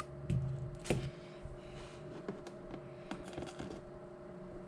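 A few light clicks and taps of small parts and tools handled on a workbench, the sharpest about a second in, over a steady electrical hum.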